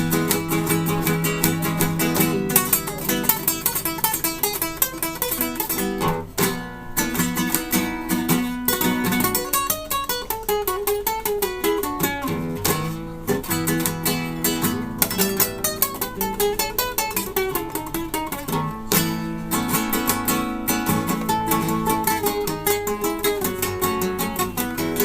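Acoustic guitar played live, with fast plucked notes and strummed chords and a falling run of notes about ten seconds in.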